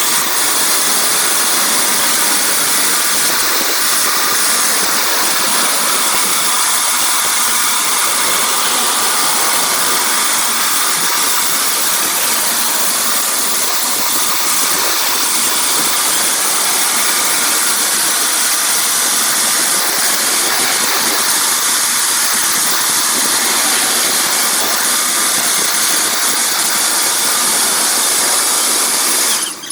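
Automatic car wash machine running with a loud, steady hiss of rushing air or spray, cutting off abruptly near the end.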